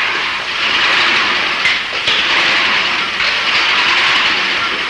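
Car engines running as cars pull away, heard as a steady, loud noise.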